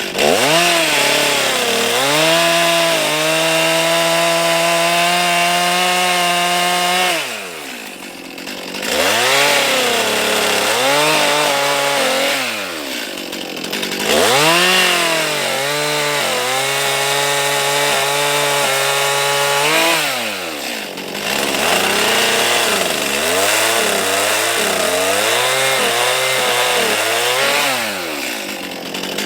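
Two-stroke chainsaw running at high speed, its pitch held steady for stretches of several seconds, dropping back to a lower speed three times, then blipped up and down repeatedly near the end.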